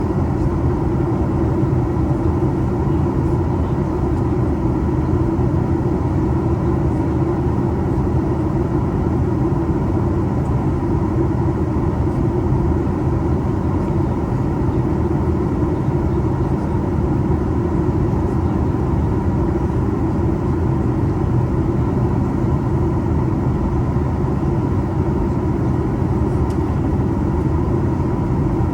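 Steady drone of a Boeing 737 MAX 8 in flight, with its CFM LEAP-1B engines and the rushing airflow heard as one low, even roar. No change or sudden event stands out.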